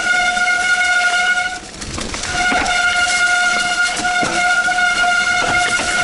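Mountain bike riding a rough trail, with a loud, steady, high-pitched whine that drops out briefly about two seconds in, over scattered clicks and rattles from the bike.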